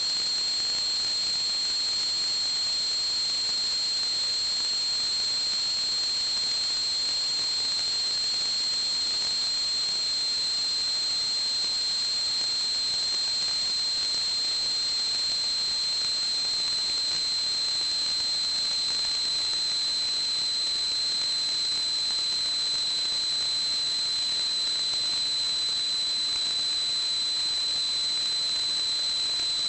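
A steady hiss with a constant high-pitched whistle over it, unchanging throughout.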